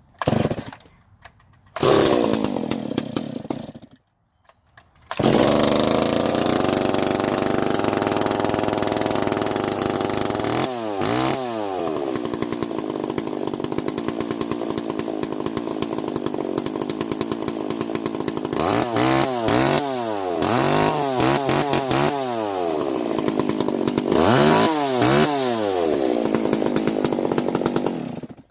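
Stihl 026 two-stroke chainsaw cold-started: it fires briefly twice and dies, then catches about five seconds in and runs, its fast idle falling lower over the next few seconds. It is revved up and down several times and then shut off near the end.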